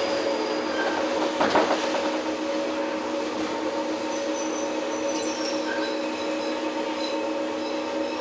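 Running sound inside a 115 series electric multiple unit's motor car (MoHa 114): its MT54 traction motors and gearing whine steadily at constant speed over the rumble of the wheels. There is a short clatter about a second and a half in, and a thin, very high wheel squeal joins about 3 seconds in.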